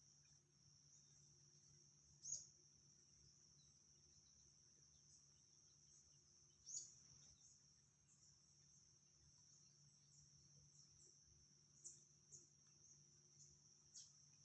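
Faint, steady high-pitched insect trill with no breaks. Short, louder chirps stand out about two and seven seconds in and several times near the end, over a faint low hum.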